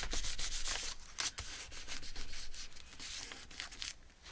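Hands rubbing and pressing on scrapbook paper to seal a glued edge: a run of irregular, short, scratchy strokes that thin out near the end.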